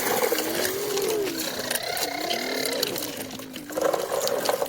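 A child's voice making a buzzing engine noise, its pitch rising and falling in waves, with a few small clicks.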